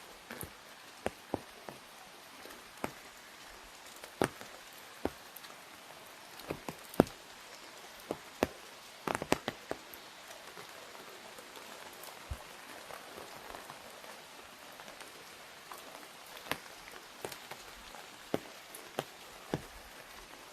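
Rain falling on an umbrella: a steady hiss of light rain with scattered heavier drops landing as sharp, irregular taps, including a quick cluster of them about nine seconds in.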